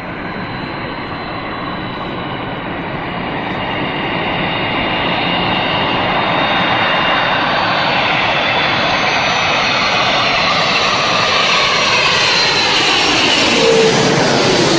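Jet airliner's engines whining over a steady rush of noise, growing louder as the plane comes closer, with a sweeping, phasing sound near the end as it passes close by.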